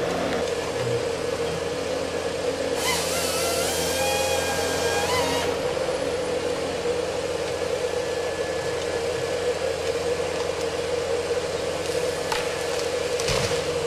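A heavy machine's engine running steadily. About three seconds in, a louder rasping noise with a wavering whine lasts a couple of seconds, then stops.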